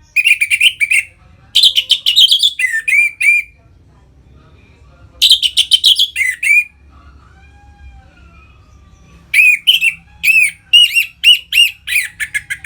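Orange-headed thrush (anis merah) singing its loud, full 'ngeplong' song in four phrases of quick repeated notes, separated by pauses of a second or two. The last phrase, starting near the end, is the longest.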